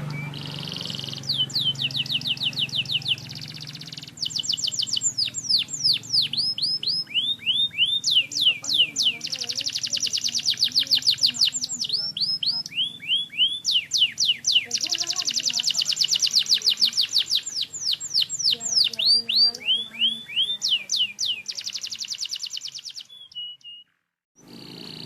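Domestic canary singing: fast trills of repeated down-slurred whistled notes, phrase after phrase, some rolls quicker and denser than others. The song breaks off abruptly near the end.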